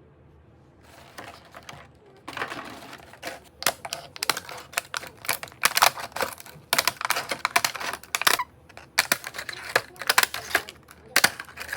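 Eggs and plastic egg trays or containers being handled: a rapid, irregular clatter of light clicks and knocks that starts about two seconds in.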